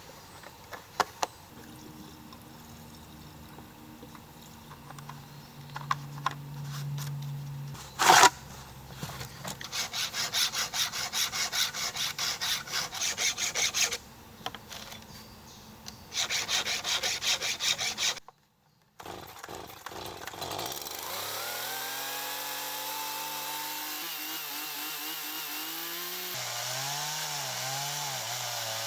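Stihl MS 170 two-stroke chainsaw being handled and started: a sharp knock about eight seconds in and two stretches of fast rhythmic pulses, then the engine running through the second half with its revs rising and falling.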